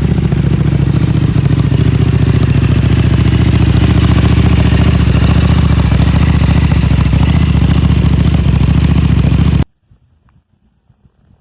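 Buell 1125R motorcycle's liquid-cooled 72-degree V-twin engine running loud and steady at an even engine speed. It cuts off abruptly about ten seconds in, leaving only a few faint knocks.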